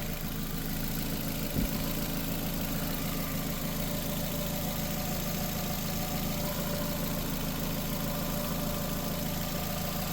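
Nissan Sentra 1.8 L four-cylinder engine idling steadily while its cooling system is being bled of air after a water pump replacement. A single short knock sounds about one and a half seconds in.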